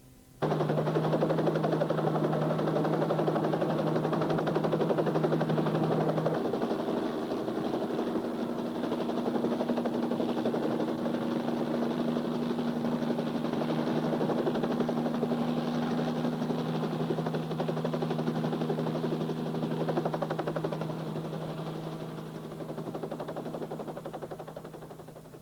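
A steady mechanical running sound effect with a fast, fine flutter over a low hum, starting abruptly about half a second in and fading out near the end.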